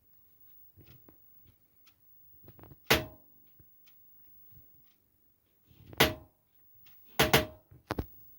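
Objects being handled and set down on a hard surface: a few separate sharp knocks and clunks. The loudest come about three seconds in and six seconds in, with a quick cluster near the end.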